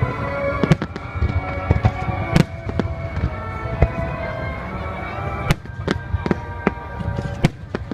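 Fireworks bursting overhead, about a dozen sharp bangs at uneven intervals. Music plays steadily beneath them.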